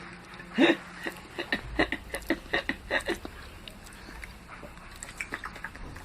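Baby chewing a KitKat chocolate bar: a string of short wet mouth clicks and smacks, busiest in the first half.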